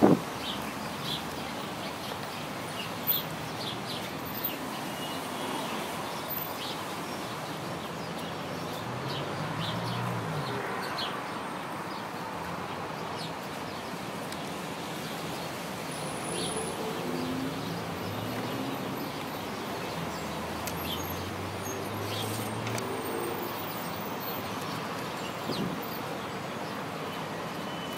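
Small birds chirping in short, scattered chirps over a steady background hum, the chirps thicker in the first half.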